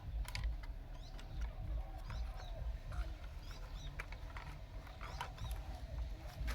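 Small birds chirping again and again in short sloping calls, over a steady low rumble with scattered sharp clicks.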